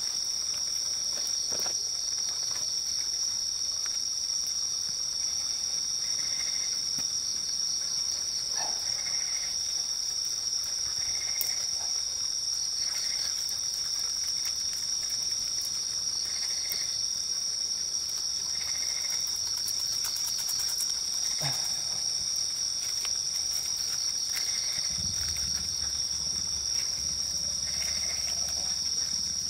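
A chorus of night insects trilling steadily at a high pitch, with a fainter short chirp repeating about once a second under it.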